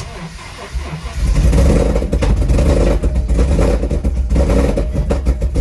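Ford Mustang GT V8 with long-tube headers and a Corsa exhaust starting: it cranks, catches about a second in, then runs loud and uneven with an irregular, choppy rumble. It is running rough, with exhaust clamps not yet properly tightened and leaking.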